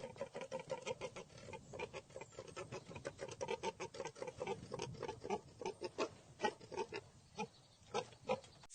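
A farm animal grunting in a rapid run of short, sharp sounds, several a second and unevenly spaced.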